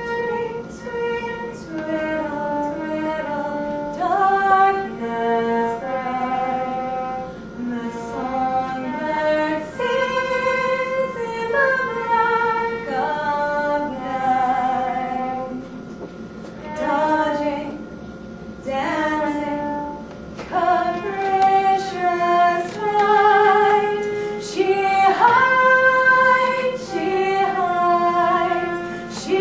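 Music: a woman singing a slow melody in held, wavering notes over a sustained accompaniment.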